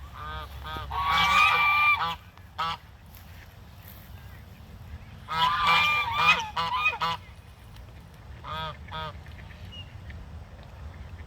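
Waterfowl calling in honking bouts of rapid repeated notes: two loud bouts, then a shorter, fainter one.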